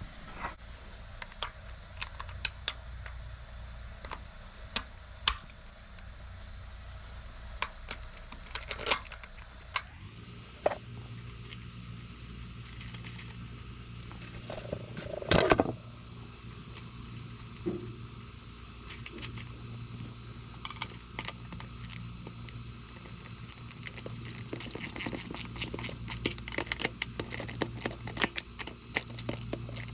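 Scattered clicks and light rattles of small fittings being handled and screwed on by hand, growing denser near the end, with a low steady hum that comes in about ten seconds in.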